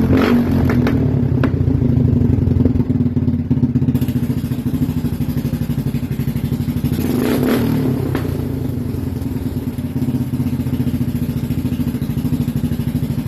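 Kawasaki motorcycle engine running steadily through a brand-new muffler, with a rapid even exhaust pulse. About seven seconds in there is a brief swell.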